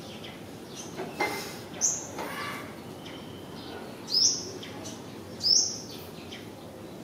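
A small bird chirps three times, short high calls that sweep upward, over steady background noise, with a few fainter chirps and clicks early on between them.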